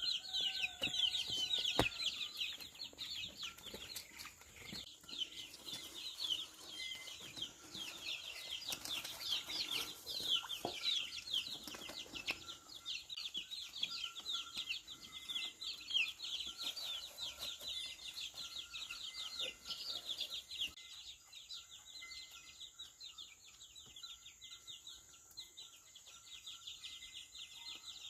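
Chickens peeping: a dense stream of short, high chirps, thinning out and growing quieter about two-thirds of the way through.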